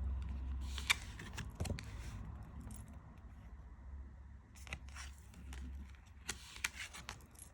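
Tarot cards being handled and laid down one after another: a scatter of light clicks and soft slides of card stock.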